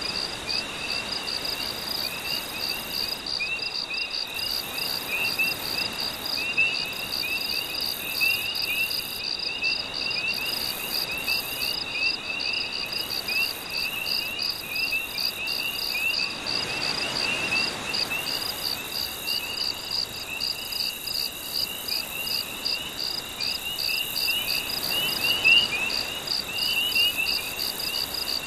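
Night chorus of crickets: a steady, evenly pulsed high chirping, with a second, lower run of quick short calls mixed in. A soft wash of gentle surf swells up under it about halfway through and again near the end.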